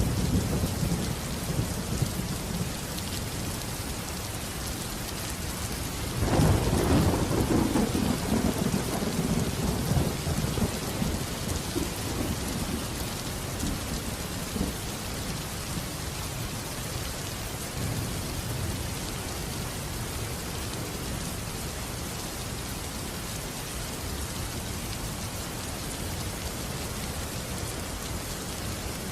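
Steady heavy rain with rolling thunder: a low rumble near the start, then a louder clap of thunder about six seconds in that rumbles on and fades over several seconds under the continuous rain.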